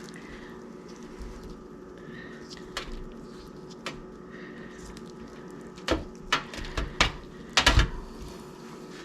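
Scattered clicks and knocks of things being handled in a kitchen, about half a dozen, with a louder cluster of knocks near the end, over a faint steady hum.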